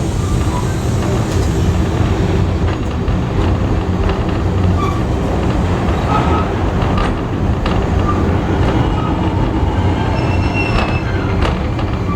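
Heritage railway carriage running along the track: a steady rumble of wheels on rails, with scattered clicks and a few short, high wheel squeals.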